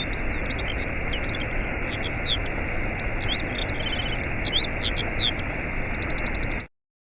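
Waterfall rushing steadily, with many birds chirping over it in short sweeping notes and quick trills. The sound cuts off abruptly near the end.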